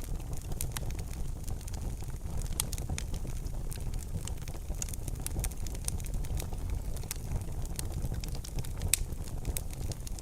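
Wood fire burning in a fireplace: a steady low rumble with many sharp crackles and pops, one louder pop about nine seconds in.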